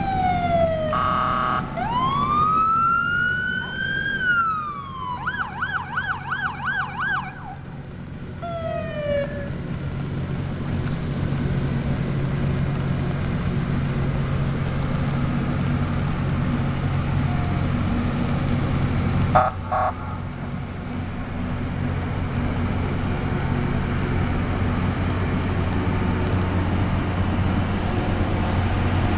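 Emergency vehicle siren going through its modes over the first nine seconds or so: a rising and falling wail, then a fast warbling yelp, then a few short falling sweeps. A steady low engine hum runs underneath, and a brief double beep comes about two-thirds of the way through.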